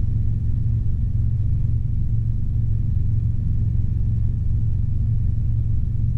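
Steady low drone of a Robinson R22 helicopter in flight, its piston engine and rotors running evenly during a climb.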